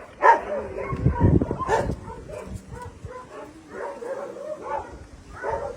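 Dogs whining and yipping, with a loud yelp about a third of a second in.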